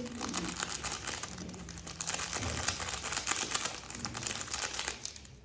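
Plastic packaging crinkling and rustling up close, with dense, irregular crackles.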